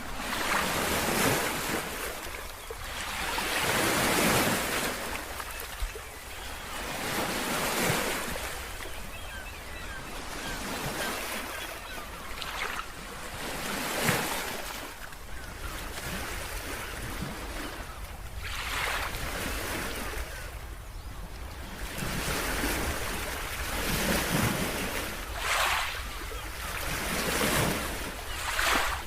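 Ocean waves breaking and washing in, the surf noise swelling and falling back every few seconds.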